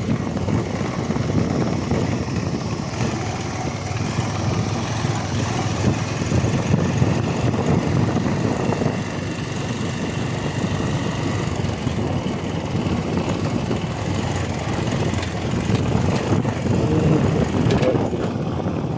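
Motorcycle engine running steadily while the bike is ridden, its level swelling and easing a little.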